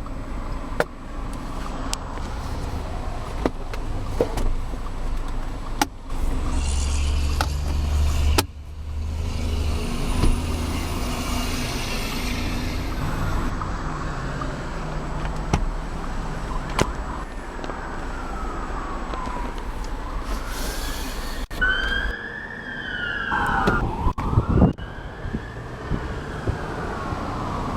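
Traffic rumble with an emergency-vehicle siren wailing, its pitch rising and falling over and over and clearest in the last several seconds, along with scattered clicks and knocks.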